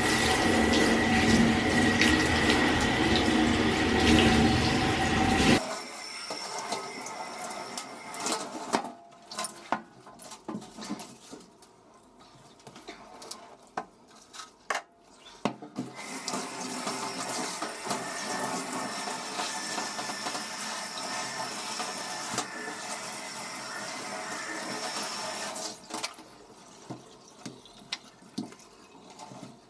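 Shower water running over houseplants. It is loud at first and drops off abruptly about five seconds in. A few light knocks and clicks follow, then a softer spray runs again from about the middle until shortly before the end.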